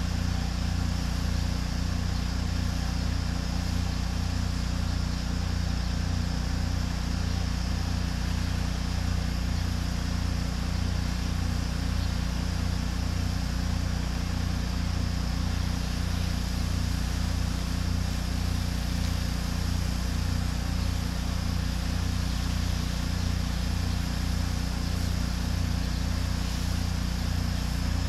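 Pressure washer's engine running steadily under load, with the even hiss of the high-pressure water spray over it.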